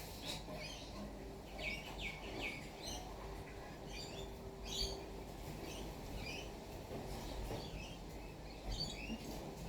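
Wild birds chirping in short, high calls scattered throughout, with a quick run of three downward notes about two seconds in, over a steady low background rumble.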